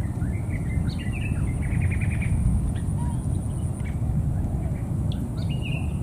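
Birds chirping in short calls, with one quick trill about two seconds in, over a steady low rumble.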